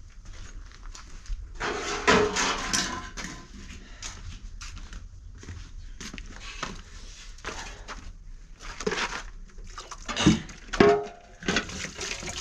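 Irregular knocks and scrapes of stones and cement being worked by hand, loudest about two seconds in and again near the end.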